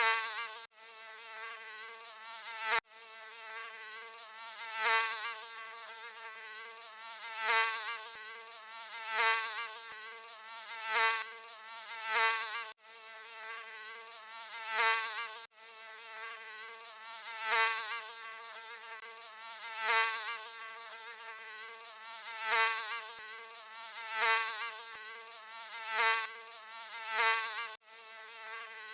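Mosquito buzzing: a thin, high, whining wing-beat drone that swells louder and fades every couple of seconds, as if the insect is flying past close by. It has a few abrupt, momentary dropouts.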